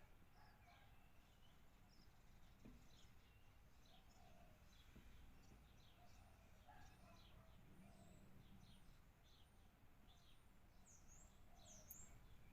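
Faint chirping and short calls from several birds, scattered through the whole stretch, with a couple of quick dipping whistles near the end.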